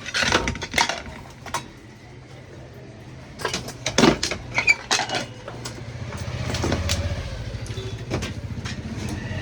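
Sharp clinks and knocks of tools handled on metal, then from about six seconds a small engine running with an even low pulse.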